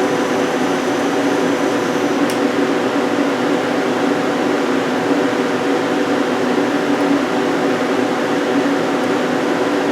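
Hyundai Kia SKT-250LMS CNC lathe running with a steady mechanical hum that carries several steady tones. There is a faint click about two seconds in.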